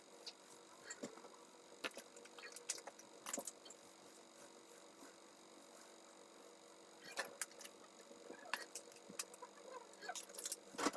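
Faint scattered small clicks and rustles, like objects being handled, over a low steady hum.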